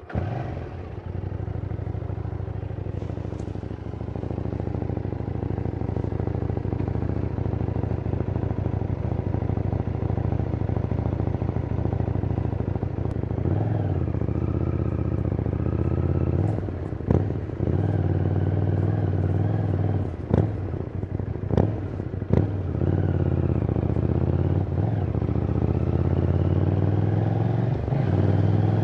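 KTM 790 Duke's 799 cc parallel-twin engine on its stock exhaust, running steadily at first. After about 13 seconds the revs rise and fall several times, with a few sharp cracks in the middle.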